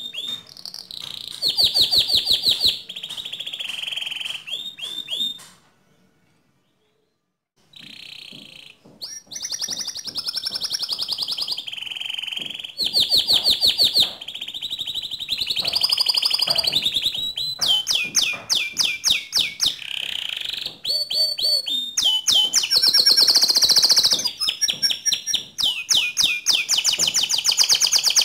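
Domestic canary singing: long, fast rolling trills of rapidly repeated high notes, changing from one trill to the next every second or two. The song breaks off for about two seconds some six seconds in.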